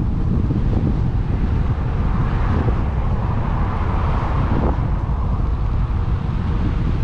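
Wind buffeting an action camera's microphone on a moving bicycle, with a road vehicle passing: its tyre noise swells from about two seconds in and fades by about five.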